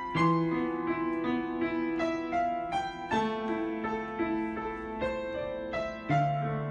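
Background piano music: a gentle run of single notes over held bass notes, with the bass changing twice.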